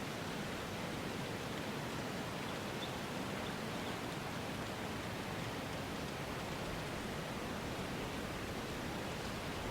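Steady, even rushing noise with no distinct events or changes: an ambient noise bed.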